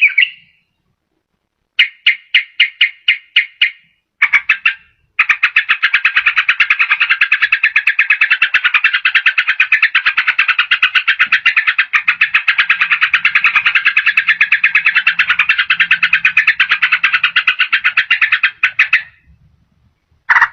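Yellow-vented bulbul (trucukan) singing. After about two seconds of quiet comes a quick series of some nine notes, then a brief burst. A long, fast, even trill follows for about fourteen seconds, and one short call comes near the end.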